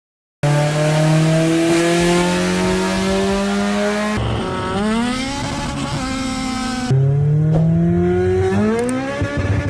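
Honda K20 four-cylinder engine in a Civic accelerating hard, its revs climbing steadily in three long pulls, each broken off abruptly, at about four and seven seconds in.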